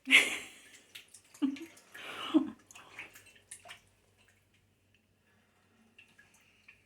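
Water splashing in a small bath for a pet conure: a few splashes in the first three seconds, then faint drips.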